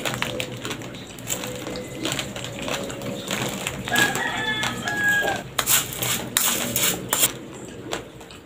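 Close-up crunching and clicking from raw rice being chewed, with a run of sharp crunches loudest in the second half. A rooster crows in the background about four seconds in.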